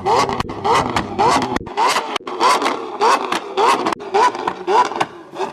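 Car engine revved hard in quick repeated throttle blips, each a short rising rasp, about two a second.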